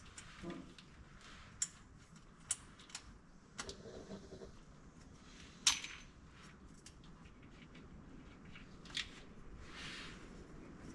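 Scattered clinks and sharp clicks of hand tools and small metal parts being handled, the loudest click about six seconds in.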